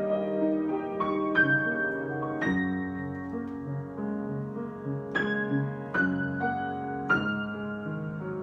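Solo piano improvisation: slow chords struck every second or so, each left to ring and fade before the next.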